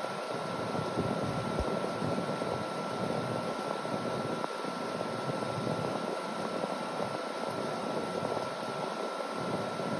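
Window air conditioner running: its fan blowing with a steady even rush and a constant thin whine. The unit is blowing air that is not cold at all.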